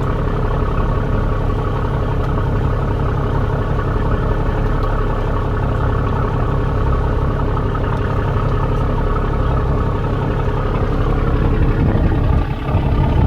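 Fishing boat's engine running steadily at idle, a constant low hum with a clattering edge.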